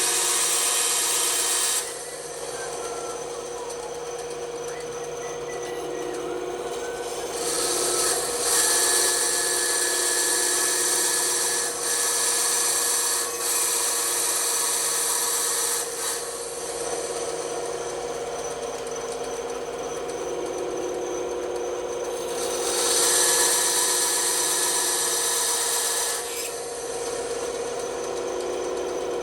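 Bandsaw running steadily, its blade cutting wood in three louder stretches of hiss: at the start, from about 8 to 16 seconds in, and from about 23 to 26 seconds in, with quieter running between the cuts.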